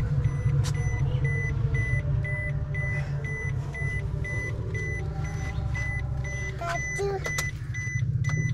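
Suzuki hatchback's engine idling with a steady low hum while the dashboard warning chime beeps evenly, about twice a second.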